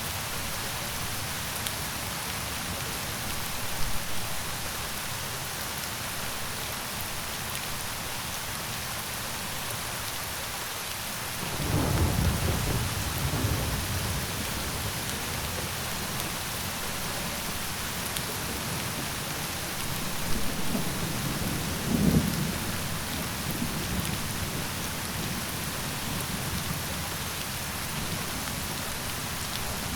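Steady rain falling, with a low roll of thunder about a third of the way in and another, with a couple of louder peaks, past two-thirds.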